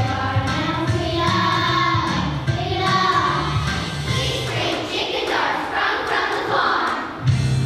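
A group of singers, children's voices among them, singing a song over a musical accompaniment track. The low bass drops out for a few seconds and comes back strongly near the end.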